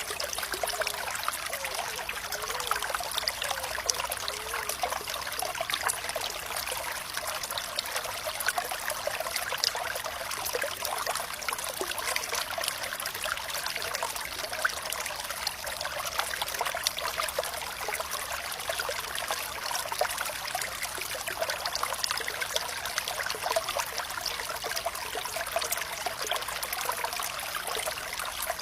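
Water trickling in a stream: a steady wash of fine splashes, with a few small gurgles in the first few seconds.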